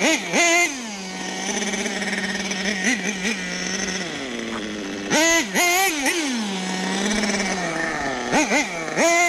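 Nitro RC monster truck's .21 two-stroke engine running at a steady speed, blipped under throttle three times: near the start, about five seconds in, and near the end. Each time the revs shoot up sharply and fall back.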